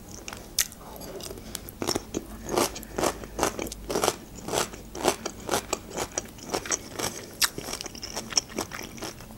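Close-miked chewing of a mouthful of food: crisp bites and wet mouth clicks, about two a second.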